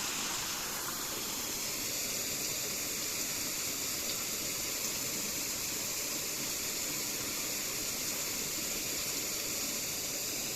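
Steady, high-pitched hiss of outdoor background noise, even throughout with no distinct events.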